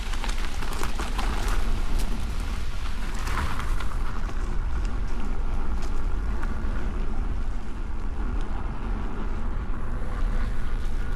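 Electric unicycle riding over a dirt trail: a steady rumble of wind on the microphone with tyre noise, and a patter of crackles from the tyre over loose debris during the first few seconds.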